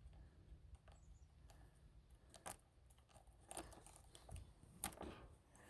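Faint handling of a chainsaw's bar and chain: a few scattered light clicks and rattles of metal parts, the sharpest about five seconds in.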